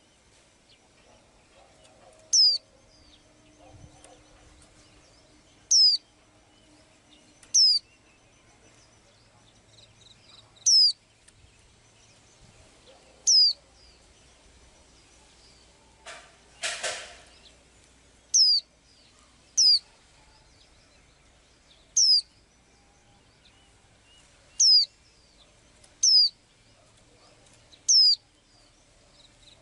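A small cage bird repeating a single sharp, high call that sweeps downward in pitch, about eleven times at irregular intervals of one to three seconds. About two-thirds of the way through there is a brief rustling burst.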